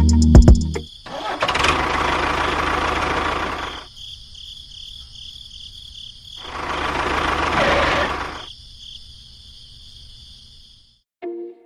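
A small motor running in two bursts of about three and two seconds, with a steady high whine carrying on between them.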